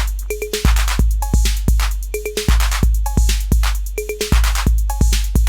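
Acidlab Miami drum machine, an analog clone of the Roland TR-808, playing a looping beat. Long, low 808-style bass drum hits sit under hi-hat strikes and short pitched percussion hits, and the pattern repeats about every two seconds.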